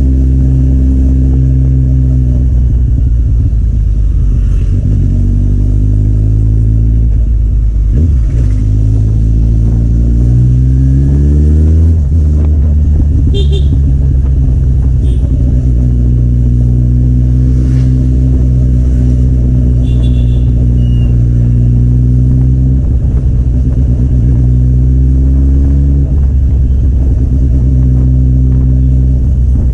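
Kawasaki Z800's inline-four engine through an Akrapovic exhaust, running steadily at low revs, about 2000 rpm, while riding. Revs climb briefly about ten seconds in, then settle back. Two short high beeps are heard partway through.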